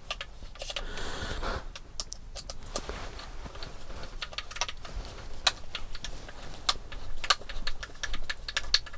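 Irregular light clicks and small clatters of plastic and metal kit parts being handled while the rear suspension arm of a Tamiya MF-01X RC car kit is assembled.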